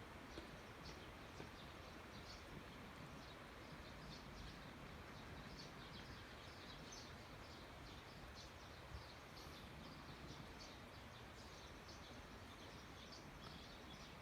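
Faint birds chirping, many short calls repeated throughout, over a steady low background hiss.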